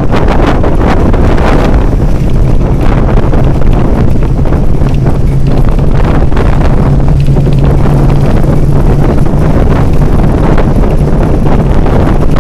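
Heavy wind buffeting the microphone, loud and constant, with a steady low drone underneath.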